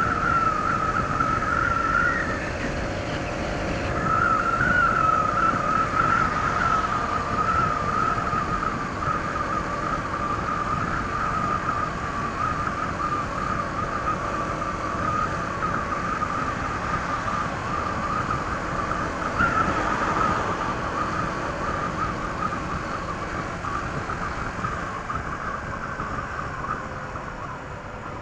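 Honda ADV 160 scooter's single-cylinder engine on its stock exhaust, running at cruising speed with a wavering high whine over wind and road rush. The level eases off near the end.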